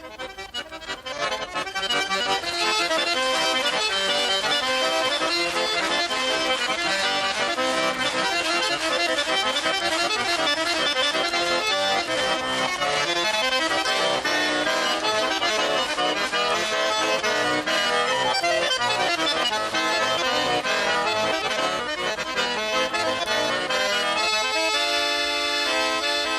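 Accordion playing an instrumental interlude between sung verses of a Russian folk-style song: a busy melody over chords. It comes in fuller about two seconds in and changes to held chords near the end.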